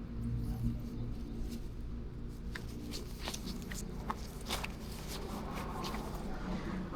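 A motorcycle engine idling with a low, steady hum, with a run of sharp clicks and taps through the middle.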